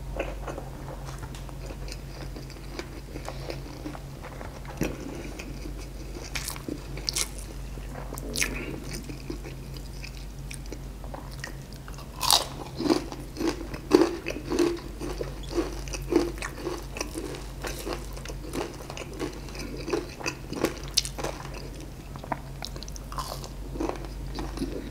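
Close-up chewing and biting of crispy fried chicken and rice, with sharp crackles of the fried crust. It gets busier and louder about halfway through.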